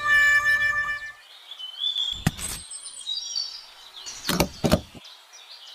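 A whining call with a slightly falling pitch trails off about a second in. Small high bird chirps follow, broken by a few short knocks.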